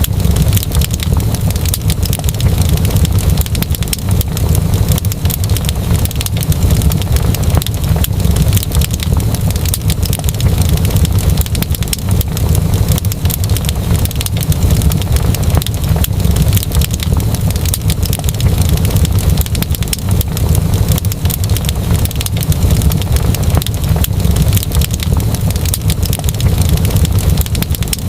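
Wood fire crackling, with many small quick pops over a steady low rumble.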